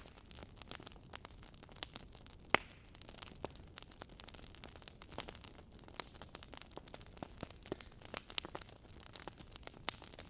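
Wood fire crackling: irregular sharp pops and snaps from burning logs over a faint steady hiss, with one louder pop about two and a half seconds in.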